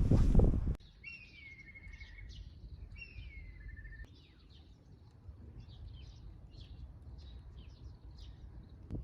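Small birds calling: two short whistles falling in pitch, then a run of quick high chirps, over a low steady rumble. A louder noisy sound cuts off abruptly under a second in.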